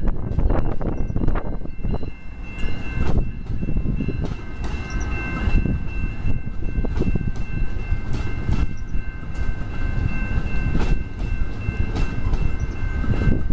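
Commuter train cars rolling past at close range: a heavy low rumble with repeated wheel clicks over the rail joints, and a steady high-pitched ringing tone over it.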